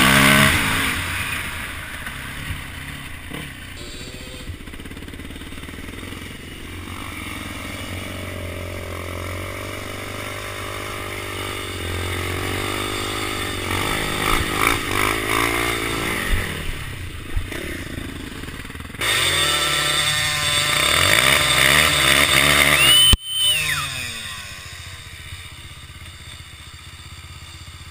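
Dirt bike engines running and revving, the pitch rising and falling as the throttle opens and closes. The sound jumps abruptly louder about two-thirds of the way in, then drops off sharply a few seconds later.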